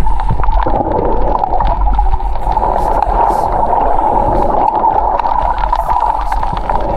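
Underwater noise: a steady rushing hiss and low rumble with many small crackling clicks scattered through it.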